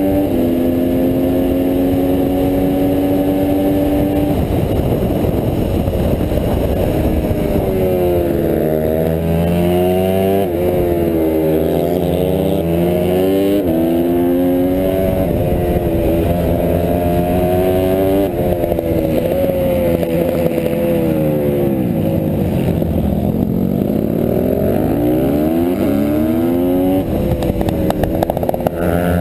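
Honda CRF150R pit bike's single-cylinder four-stroke engine under hard race riding: the pitch climbs steadily at first, then rises and drops again and again as it revs through the gears, shifts and backs off for corners.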